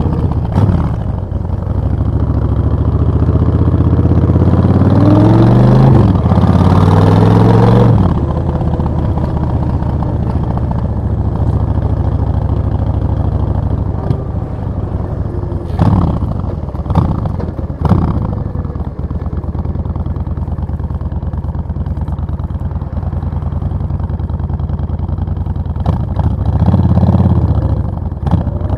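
Suzuki VS1400 Intruder's V-twin engine under way: it revs up for several seconds, drops off sharply about eight seconds in, then runs steady at lower revs. A few short sharp knocks come about two-thirds of the way in, and the revs rise again briefly near the end.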